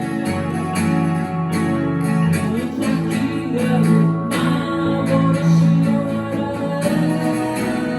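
Live music with strummed acoustic guitar, played steadily.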